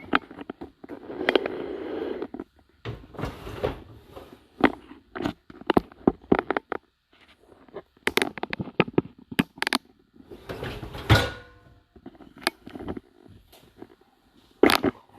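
Dishwasher racks being rolled out and in on their rails, with dishes clattering and clinking as they are handled. There are many separate knocks, and two longer rolling scrapes, about a second in and near the end.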